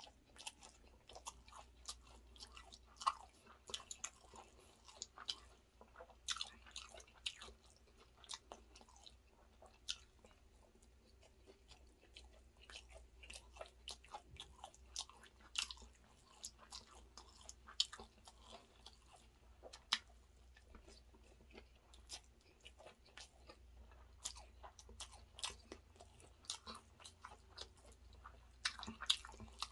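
A person chewing mouthfuls of chicken biryani, a steady run of short sharp mouth clicks and smacks over a faint low hum.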